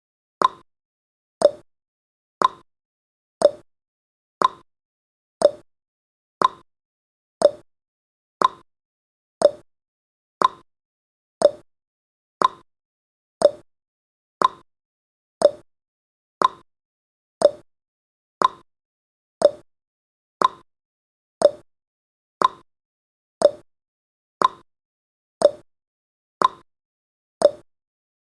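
Countdown timer's ticking sound effect: one short, sharp clock tick every second, evenly spaced.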